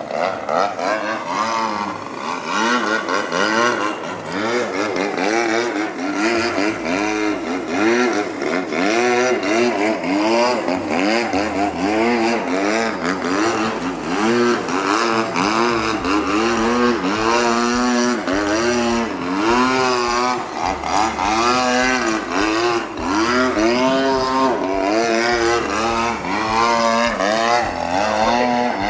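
26cc gasoline two-stroke engine of an RC aerobatic airplane buzzing in flight, its pitch rising and falling over and over as the plane passes and manoeuvres.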